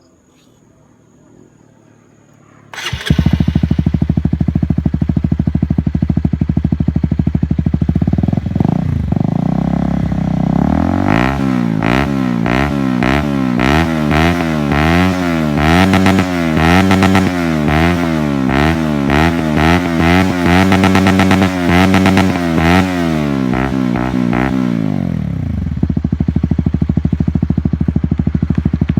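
Honda CBR150R single-cylinder engine breathing through a Yoshimura slip-on exhaust. It starts up about three seconds in and idles. Then it is revved in repeated quick blips, about one a second, for much of the middle, and settles back to idle near the end.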